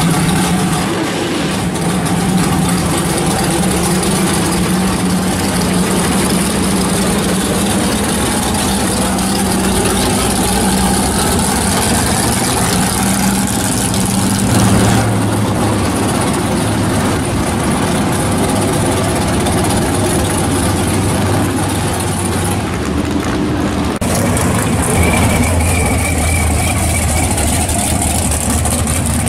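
Loud V8 drag-car engines idling and rolling slowly. The engine note changes abruptly twice as one car's exhaust gives way to another's.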